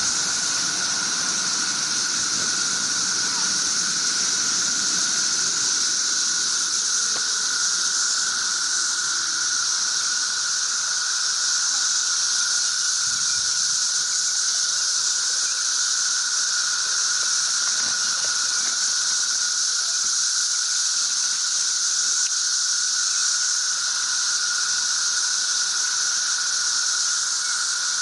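A dense chorus of cicadas: a continuous, even, high-pitched drone that never breaks or changes.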